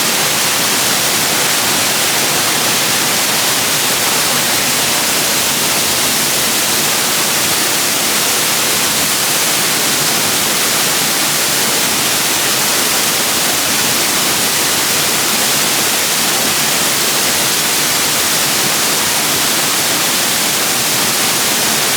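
Waterfall rushing close by, a loud, steady, unbroken roar of falling water.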